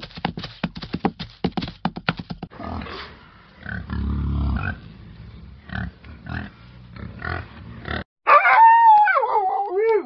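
Quick clicking and tapping, then warthogs grunting. In the last two seconds a dog howls in one loud, wavering call that falls in pitch.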